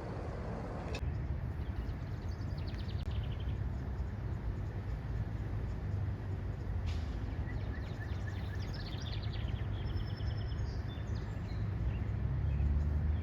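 Songbirds singing in short rapid trills and a few whistled notes, over a steady low rumble.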